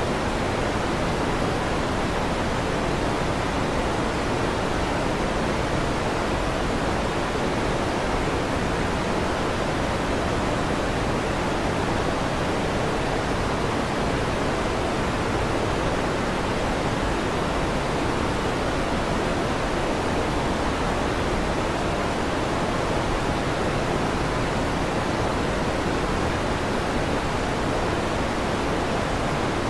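Electric fan running with a steady, even whooshing hiss that does not change.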